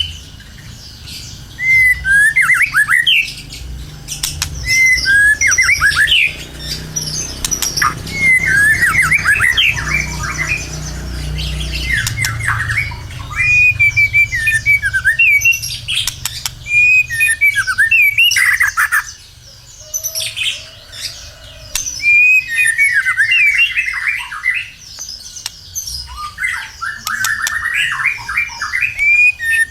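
White-rumped shama singing loud, varied phrases of whistles, chirps and harsh rattling notes, in bursts of a second or two with short pauses between them.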